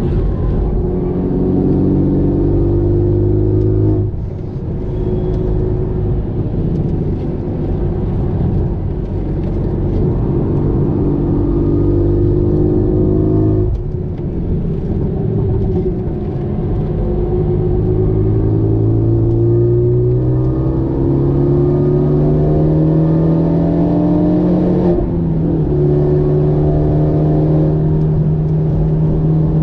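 Renault Mégane 3 RS 275 Trophy's turbocharged 2.0-litre four-cylinder engine running under acceleration, heard from inside the cabin. Its pitch climbs in long pulls, with dips about four and fourteen seconds in and a step down near twenty-five seconds, after which it holds steady.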